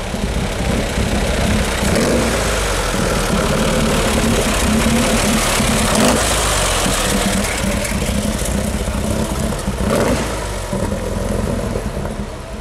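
The big aero engine of the aero-engined Isotta Fraschini racing car running at low speed as the car drives past and pulls away, a loud, steady engine sound that eases a little near the end.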